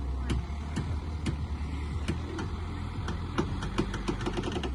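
A motor vehicle's engine running at a steady low rumble, with scattered sharp clicks and taps over it.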